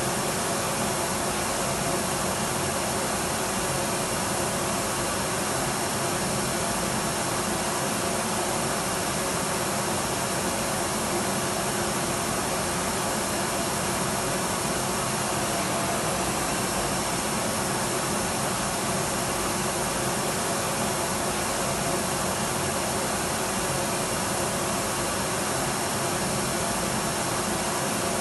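Electric vacuum cleaner running steadily: an even, unchanging whoosh of motor and rushing air with a few faint steady tones, no change in pitch or level.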